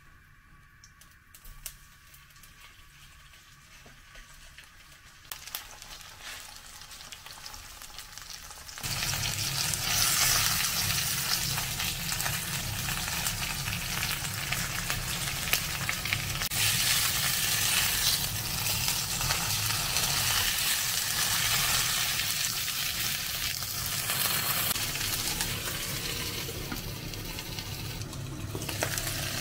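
Chicken thighs sizzling as they fry in oil in a frying pan. Faint at first, then loud sizzling sets in suddenly about nine seconds in and runs on steadily, easing a little near the end.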